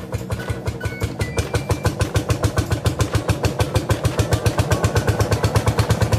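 Tractor engine running with a rapid, even thumping beat that slowly gets louder.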